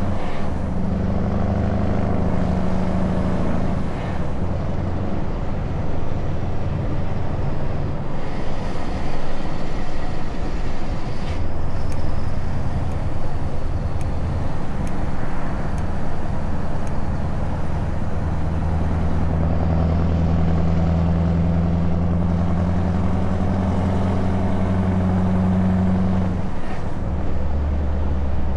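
Scania S truck engine running through open exhaust pipes while driving. The engine note is continuous and changes pitch several times along the way, with a sharp drop about a second before the end.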